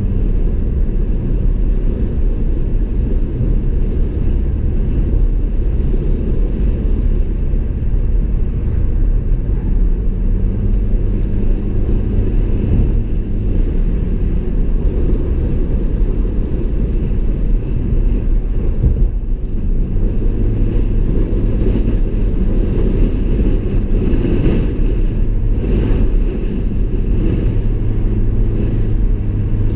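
Car driving on the road: a steady rumble of tyres and road noise with the engine's hum underneath, its pitch stepping up and down a few times as the speed changes.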